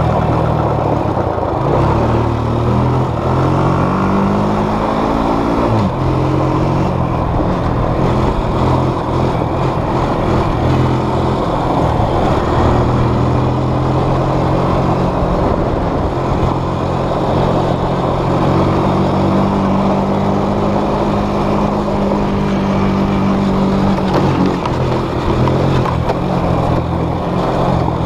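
Small off-road vehicle engine heard close up, its pitch climbing as it revs, dropping sharply about six seconds in, then climbing again and holding steady before dipping once more near the end. A dense rushing noise runs under the engine throughout.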